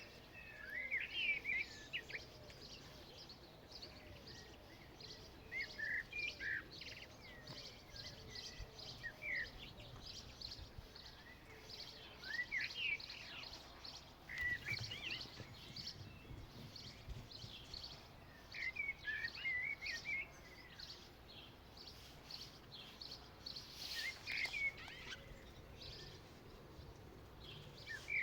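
Birds singing in short warbled phrases of rising and falling chirps every few seconds, over a steady run of faint high ticks and a low background rumble.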